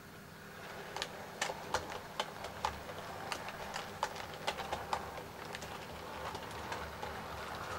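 OO gauge model train running along the track and drawing closer, its wheels clicking irregularly over rail joints and pointwork, with a low running hum growing louder about a second in.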